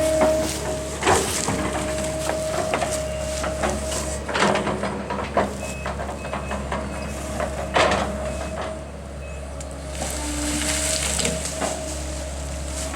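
A heavy machine's engine runs steadily while it knocks down small trees, with several sharp cracks and crashes of wood breaking. Midway there is a short run of high reversing beeps.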